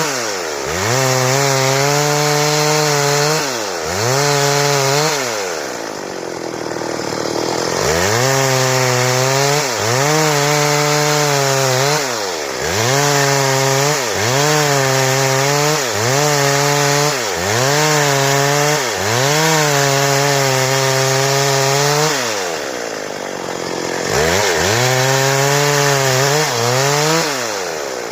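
Stihl two-stroke chainsaw cutting a board. The engine pitch sags and recovers every second or two as the chain bites into the wood and comes free. It drops to a lower, quieter run twice, once about five seconds in and once near the end.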